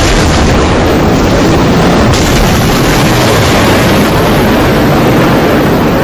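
A loud, steady roar of storm wind and heavy rain battering a phone's microphone, with heavy low-end buffeting.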